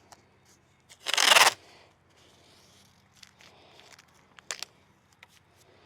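A brief, loud rasping noise about a second in, like something being torn or ripped, followed by scattered light clicks and knocks of materials being handled.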